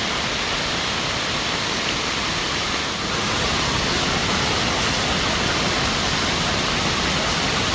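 Heavy rain and gushing floodwater: a steady, dense rush of water that gets a little louder about three seconds in.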